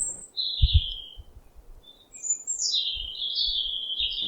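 Bird calling with high, thin chirps: a short phrase about half a second in, then a longer run of notes that steps down in pitch from about two seconds in. A couple of low thumps come near the start.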